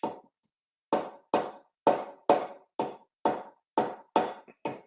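A hammer knocking on the cylinder head of a Ford Ranger PX2 P5AT five-cylinder diesel to break it loose from the block once the head bolts are out: a steady run of sharp, ringing metallic knocks, about two a second.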